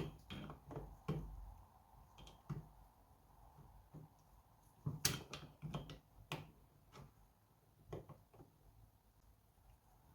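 Faint, scattered clicks and taps of small hand tools on metal engine parts while working a circlip off, with the loudest cluster of clicks about halfway through.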